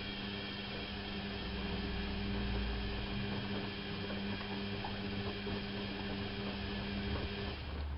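Bauknecht WAP 6460 front-loading washing machine running, a steady motor hum over a whooshing wash, which cuts off about seven and a half seconds in and gives way to a lower rumble.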